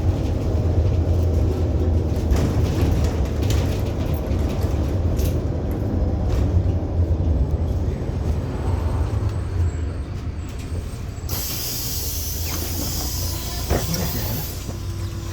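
Cabin sound of a MAZ-107.468 city bus: a low engine and running-gear rumble that eases off, then about eleven seconds in a three-second hiss of compressed air from the bus's pneumatic system.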